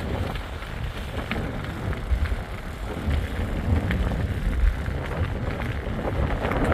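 Wind rumbling and buffeting on the microphone during a bicycle ride along a road, with a steady low noise that rises and falls.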